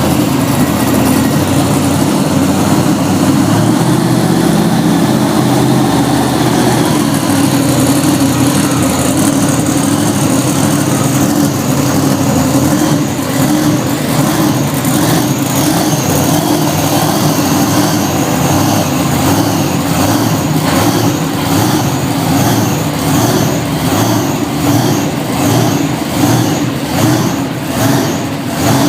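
Loud large truck engine running steadily. Near the end its level pulses up and down roughly once a second.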